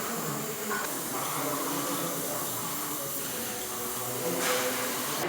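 Steady hiss of welding-shop work, with faint voices underneath. A short louder rush of hiss comes about four and a half seconds in.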